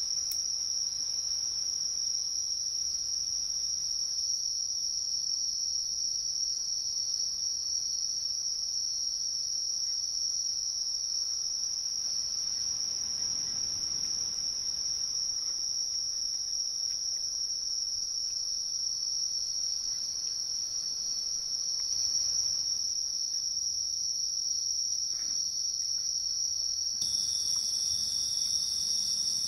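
Steady, high-pitched chorus of night insects trilling without pause. Its pitch mix shifts slightly near the end.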